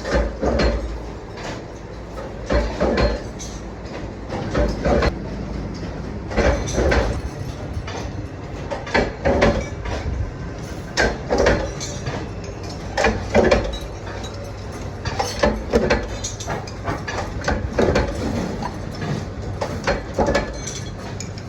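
Irregular knocks and clatter, in bunches every second or two, over a steady low machine hum: workshop sounds of hard parts being handled or struck.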